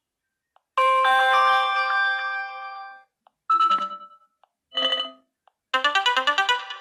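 Smartphone notification tones from a Samsung Galaxy S6 running LineageOS, previewed one after another. There are four short electronic chimes with gaps between them: a longer multi-note chime first, two brief ones, then a quick run of rising and falling notes near the end.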